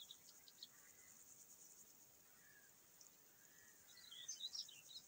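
Near silence, with faint small-bird chirping outdoors: a short run of high chirps at the start and another about four seconds in, with a few soft whistled notes between.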